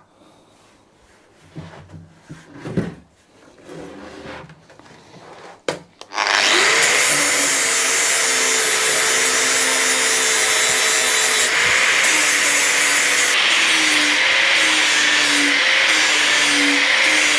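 A few knocks and handling noises, then about six seconds in an angle grinder with a cutting wheel starts up and runs steadily, cutting through the brazed seam of a steel motorcycle fuel tank.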